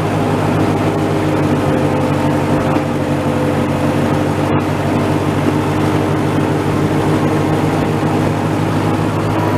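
Old Massey tractor's engine running at a steady speed.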